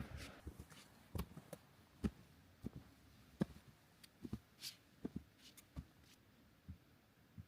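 Quiet footsteps of a hiker on the forest floor: irregular light ticks and soft knocks, about one or two a second.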